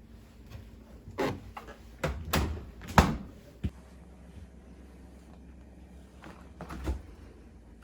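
Household knocks and clunks of items being handled and set down around a refrigerator, several in quick succession with the sharpest about three seconds in and one more near the end.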